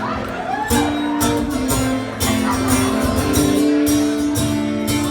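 Guitar playing a song intro, with strummed chords ringing out.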